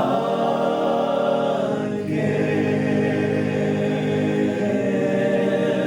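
A group of men singing in harmony, holding the word "way" in a long sustained chord. The chord changes about two seconds in and again near the end.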